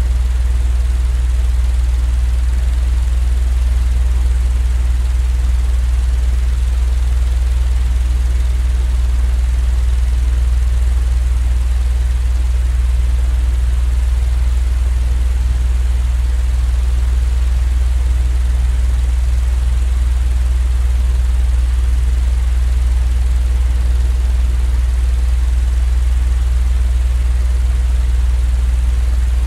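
Steady, unchanging low mechanical hum with a faint hiss over it, played as a sleep-aid white-noise track.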